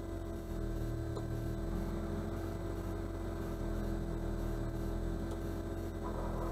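Car engine idling steadily, heard from inside the cabin as a low, even hum with a steady tone over it.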